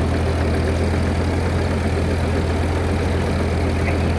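Tractor engine running with a steady, even low drone.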